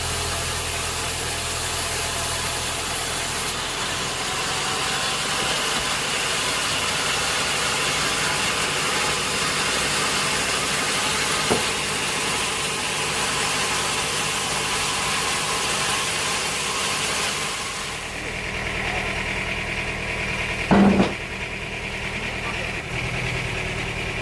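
Sawmill machinery running steadily with a strong hiss, which falls away about three-quarters of the way through, leaving the motor's hum. A short loud knock comes near the end.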